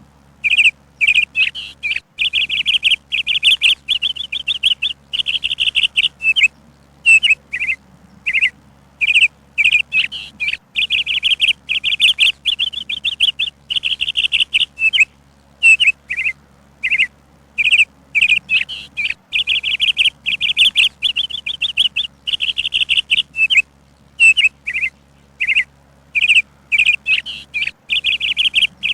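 Songbirds chirping and trilling in quick, high-pitched runs, broken by short pauses every second or so.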